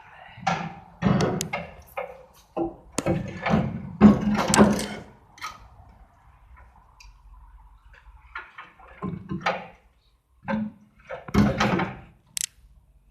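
Irregular metal clanks and thuds in several clusters, from parts of an old Aveling-Barford road roller being handled and knocked while it is tinkered with.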